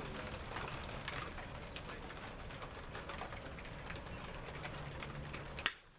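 Birds calling, with a single sharp crack about a second before the end.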